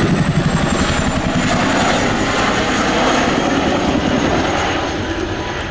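Boeing Chinook HC6 tandem-rotor helicopter flying past low: rapid rotor blade chop under a high turbine whine that slides slightly down in pitch, the noise easing off near the end as it moves away.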